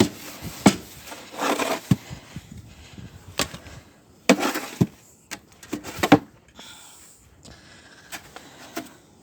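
Snow shovel scooping and scraping through dry snow, with several sharp knocks of the blade.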